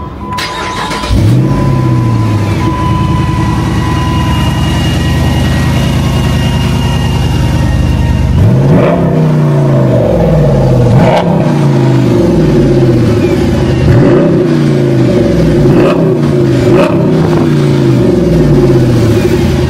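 2006 Jeep Grand Cherokee SRT8's 6.1-litre Hemi V8 cold-started through its Corsa dual exhaust: a brief crank, and the engine catches about a second in and settles into a steady idle. From about eight seconds in it is revved in a series of quick blips, roughly one a second.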